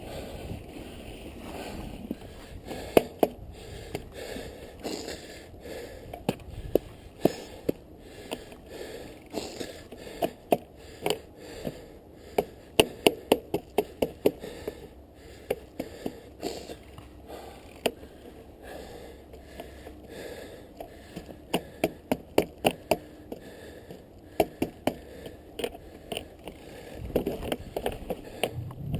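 Mountain bike being ridden or pushed through snow: sharp clicks and crunches, mostly in runs of two or three a second, over a low rumble of wind and tyres.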